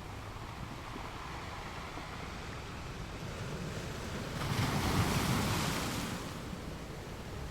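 Ocean surf on a rocky beach: a steady wash of water, with one wave breaking a little past halfway through, swelling loudest, then fading over about two seconds.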